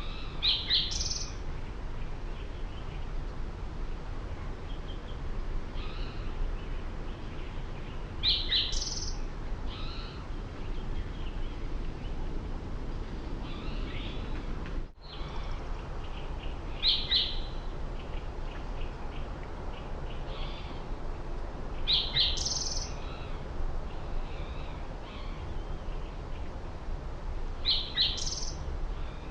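Outdoor birdsong: a bird repeats a short, high, rising phrase five times, with fainter chirps from other birds in between, over a steady low background rumble. There is a very brief dropout in the sound about halfway through.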